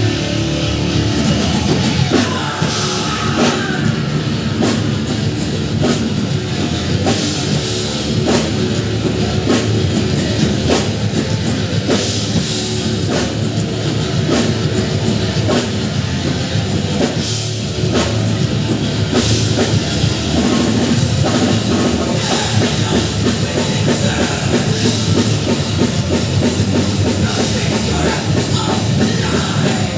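Rock band playing live, loud and steady: distorted guitars over a driving drum kit with regular hits, the cymbals growing brighter and busier about two-thirds of the way in.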